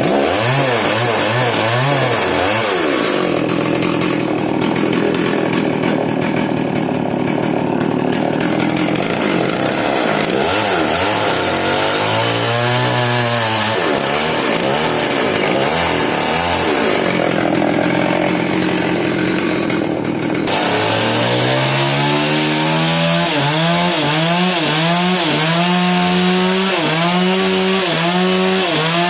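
Chainsaw cutting wood, its engine pitch rising and falling over and over as the chain bites and eases. About two-thirds of the way through it grows louder and brighter, rising and falling in a quick, regular rhythm.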